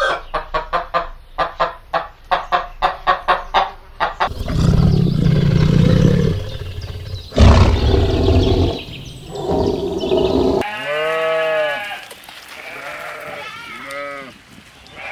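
Farm animals calling one after another: about four seconds of short calls in quick succession, then two long low calls, then several pitched calls that rise and fall, from goats or sheep among others.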